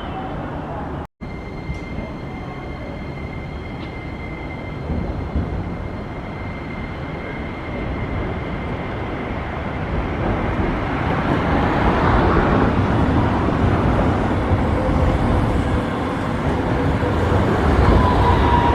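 Hiroshima Electric Railway streetcar at a tram stop, its rumble growing louder from about ten seconds in as it draws near. A steady high whine runs over the first several seconds.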